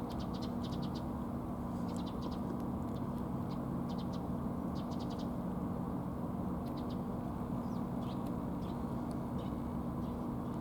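Bird calls: short, rapid trains of high chirps repeating every second or so, over a steady low hum.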